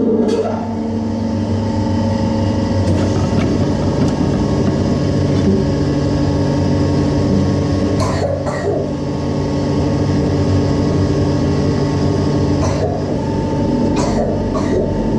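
Metal lathe running under power feed while the cutter takes a 1 mm-deep cut in metal: a steady motor and gear hum with held tones. A few sharp clicks come in the second half.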